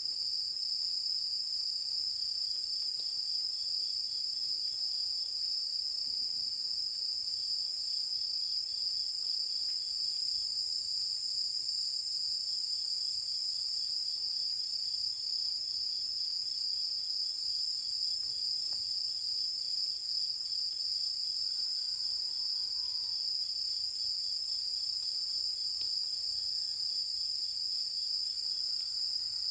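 A chorus of night-singing insects trilling continuously, an even high-pitched ringing, with a fainter fast-pulsing chirp that comes and goes beneath it. A few faint short calls come in over the last several seconds.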